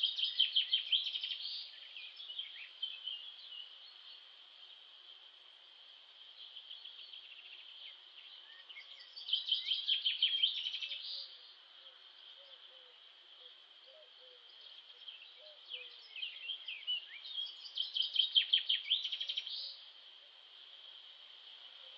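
Songbird singing: a loud, rapid trilled phrase about two seconds long comes three times, roughly every nine seconds, over a steady high-pitched background of chirping.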